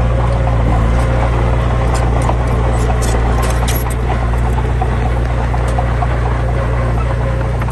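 Heavy diesel engine of a truck or bulldozer running steadily at a low, even pitch, with scattered light clicks and clatter over it.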